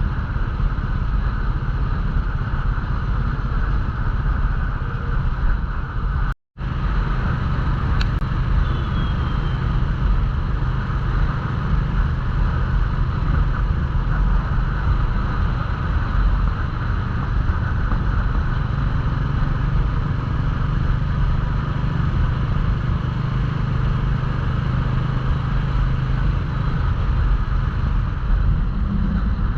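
Royal Enfield Classic 350's single-cylinder engine running at a steady cruise, with wind and road noise. The sound cuts out completely for a split second about six seconds in.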